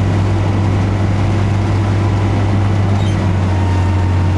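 Amphicar's rear-mounted Triumph four-cylinder engine running steadily under way on the water, heard from inside the cabin as a loud, even low drone with a rush of noise over it.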